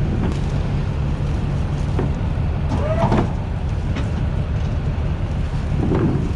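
Duramax V8 turbodiesel pickup engine idling steadily, with a few light knocks and a short squeak-like sound about halfway through.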